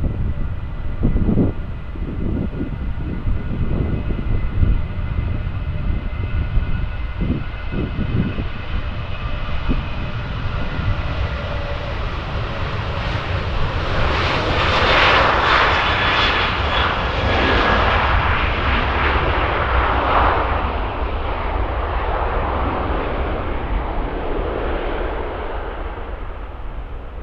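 Boeing 737-800 jet engines at takeoff power during departure: a steady whine that swells into a loud rush as the plane passes, peaking a little past the middle, then slowly fading.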